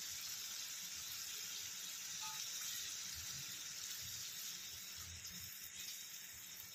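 Tomato purée and spice masala sizzling in hot oil in a steel pan, a soft, even hiss; the oil has already separated from the masala. The hiss eases off a little near the end.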